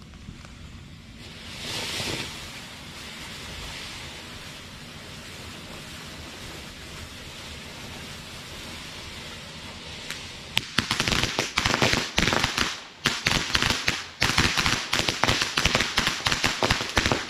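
TNT Fireworks 'Goblins' ground fountain firework hissing steadily as it sprays. About ten seconds in it breaks into loud, dense crackling.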